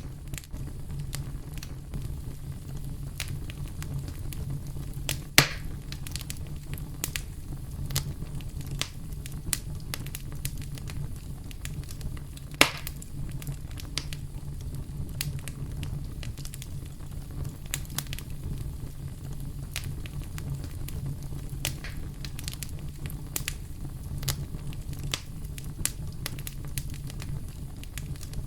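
Wood fire crackling with scattered small pops and two louder snaps, about five and twelve seconds in, over a steady deep rumble of brown noise.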